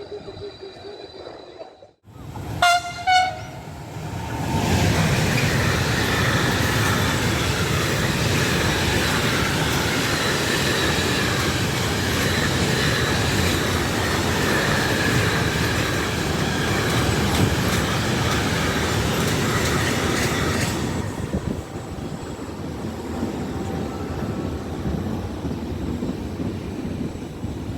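Train horn giving two short blasts, then a train passing through at speed with a loud steady rush of wheels on the rails that lasts about sixteen seconds before dropping to a lower rumble.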